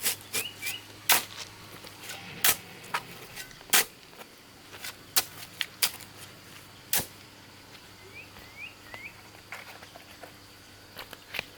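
Irregular sharp knocks and clacks, a dozen or so, the loudest in the first four seconds and fewer towards the end, with a few short bird chirps at the start and again past the middle.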